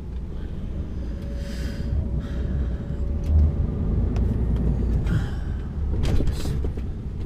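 Articulated lorry's diesel engine running at low speed, heard from inside the cab as a steady low rumble, with a few short hisses partway through.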